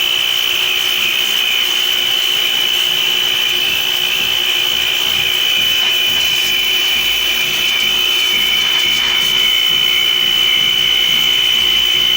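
Tecna electric pressure washer running under load while its jet blasts grime off a surface: a steady high-pitched motor whine over the hiss of the spray.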